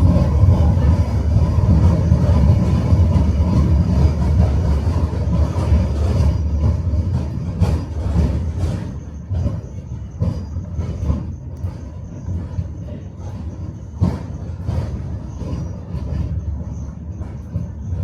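Electric tram running on rails, heard from aboard: a steady low rumble with scattered clacks of the wheels over rail joints. About nine seconds in it grows quieter and a faint high steady whine comes in.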